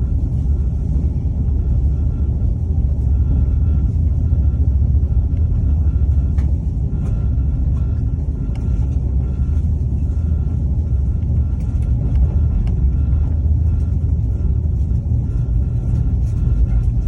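Moving train: a steady low rumble with a faint steady tone above it and scattered light clicks.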